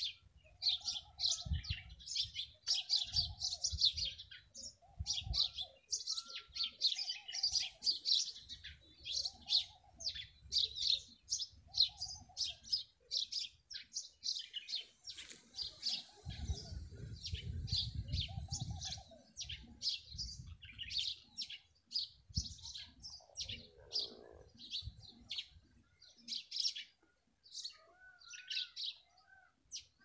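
Several birds chirping and twittering in quick high notes all through, with a lower arched call repeating about every second and a half until about two-thirds of the way in. Patches of low rumble come and go beneath, strongest a little past halfway.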